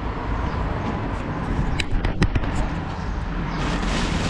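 Belongings being handled and taken out, with a few sharp clicks and knocks about two seconds in, over a steady low rumble.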